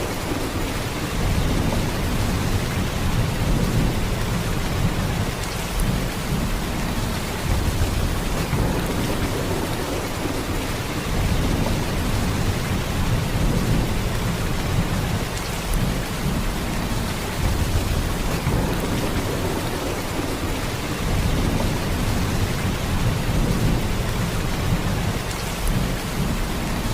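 Heavy, steady rain downpour, an even hiss of rain with a deep low rumble underneath and no distinct claps or breaks.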